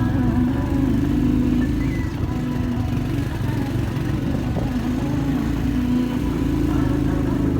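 Motorcycle engine running steadily under way, its pitch holding and shifting a little as it rides.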